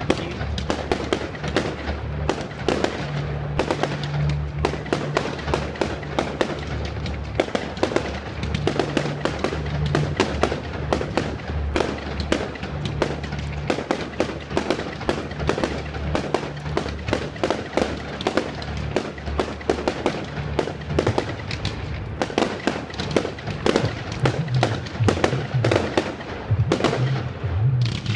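Fireworks crackling in a dense, unbroken stream of rapid sharp pops, over music with a bass line.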